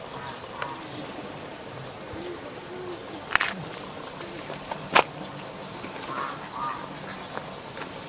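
Wild birds giving short calls in the background, with two sharp knocks about three and a half and five seconds in.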